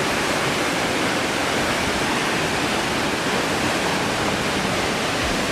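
Waterfall, a steady, even rush of falling water close by.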